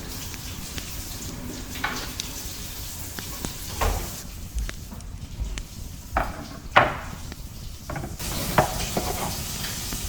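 Kitchen clatter: a pot, dishes and utensils knocked and scraped against each other several times, loudest about two thirds of the way in, over a steady sizzling hiss.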